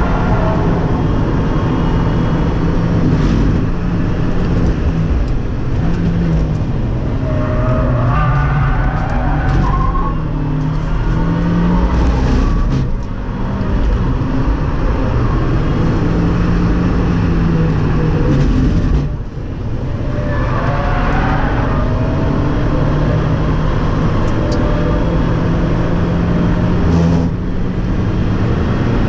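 2017 Fiat 124 Spider Abarth's 1.4-litre turbocharged four-cylinder engine at full throttle on a fast lap. The pitch climbs and falls with each gear and corner, and the note drops briefly about 13 and 19 seconds in and again near the end.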